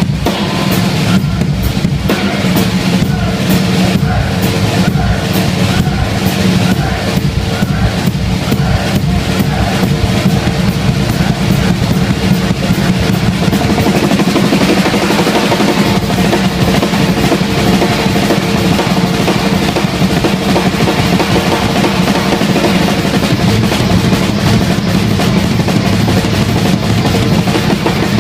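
Live rock drum solo on a full drum kit: pounding bass drum under hits and rolls across the kit. The strokes are distinct at first and become dense and near-continuous about halfway through.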